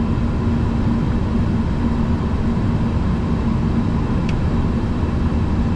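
Steady flight-deck noise of an Airbus A340-300 on short final approach: airflow and engine noise with a low steady hum.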